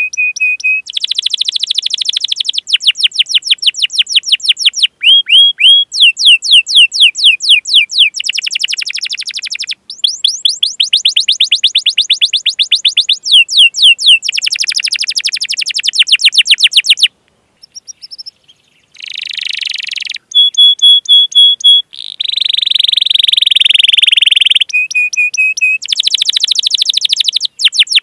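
Domestic canary singing a long, fast song: runs of rapid repeated 'cuit cuit' chirps alternate with buzzy trilled rolls and short held whistles. The song breaks off briefly a little past halfway, then resumes.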